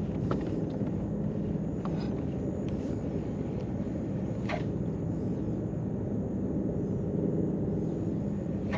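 Steady low outdoor rumble of wind on open water, with a faint steady hum. A few short high chirps break through, the clearest about halfway through.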